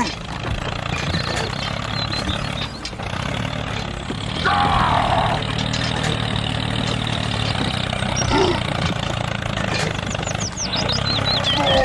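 Steady engine drone of a miniature tractor running. Brief falling pitched calls are heard about four seconds in, and again with a few high chirps near the end.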